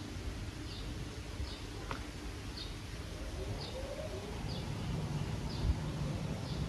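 A small bird repeating one short high chirp about once a second, over a steady low background rumble.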